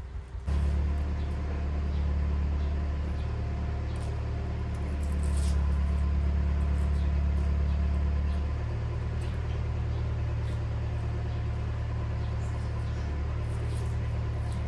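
A motor starts suddenly about half a second in and runs steadily with a deep hum, its tone shifting slightly a few times.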